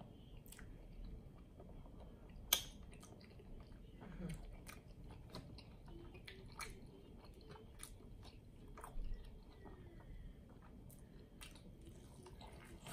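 Close-miked chewing of a cheesy burger: soft, wet mouth sounds with scattered small clicks and smacks, one sharp click about two and a half seconds in.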